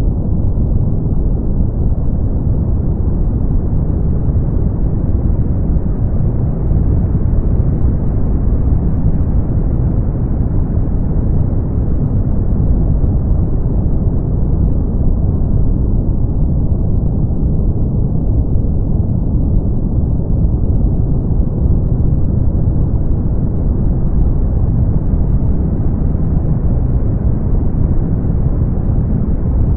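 Brown noise: a steady, deep rumbling hiss with no lows sharper than the rest and nothing above the upper midrange, unchanging throughout.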